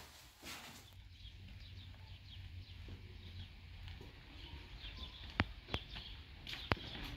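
Small birds chirping, with a few sharp clicks in the second half.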